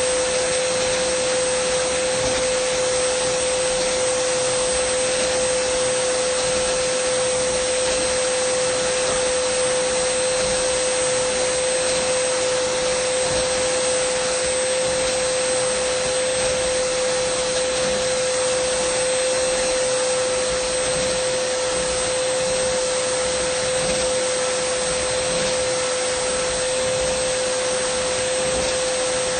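Dyson vacuum cleaner running steadily: a constant rush of air with a steady mid-pitched tone and a fainter, very high whine above it.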